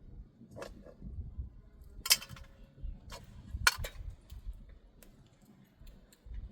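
A few sharp knocks and clinks of hard objects, the loudest about two seconds in with a short ring after it, over a low background rumble.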